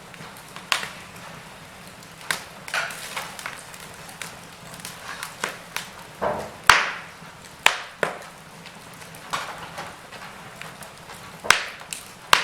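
Wood fire crackling in a fireplace: irregular pops and snaps, with a few sharper loud cracks, over a low steady hiss.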